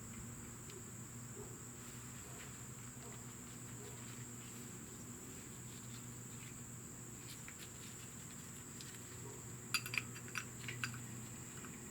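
Faint steady high-pitched whine over a low hum. Near the end there is a quick cluster of light clicks from small brake caliper parts being handled.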